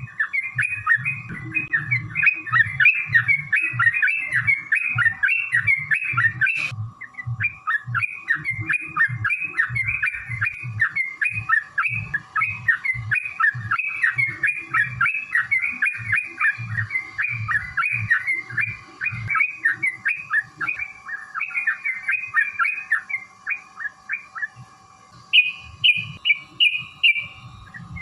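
Yellow-vented bulbuls singing long, rapid, chattering phrases of chirped notes almost without pause, broken once by a click about seven seconds in. Near the end comes a short run of higher, quicker notes.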